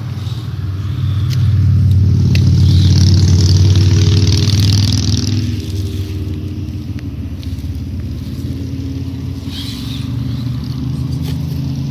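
Radio-controlled scale trail trucks driving, their electric motors and gears whirring steadily. The sound builds over the first two seconds and is loudest in the first half.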